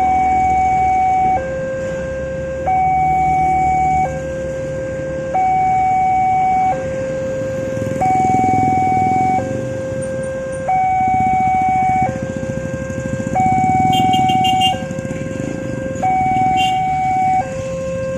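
Level-crossing warning alarm sounding a steady two-tone signal, a higher and a lower tone alternating about every 1.3 seconds. A low rumble grows underneath from about halfway through.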